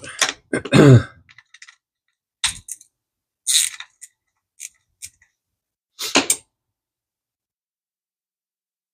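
Small metal parts of a vintage Penn spinning reel clicking and clinking as the reel is taken apart by hand on a workbench: a handful of short, separate clicks a second or so apart.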